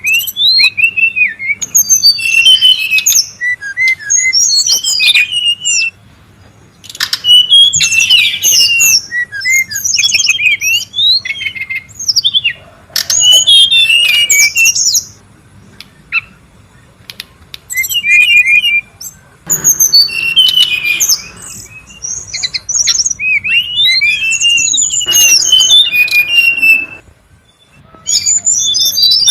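Brown-chested jungle flycatcher calling noisily: rapid, tumbling runs of high chirps, whistles and harsh notes in bursts of several seconds, with a few short breaks.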